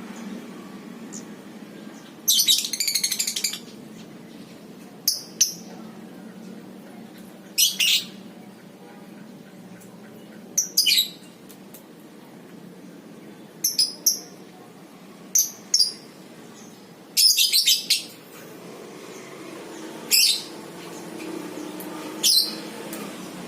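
Lovebird giving sharp, shrill high-pitched calls every couple of seconds, with two longer rattling chatter trills, about two seconds in and again near seventeen seconds. A steady low hum runs underneath.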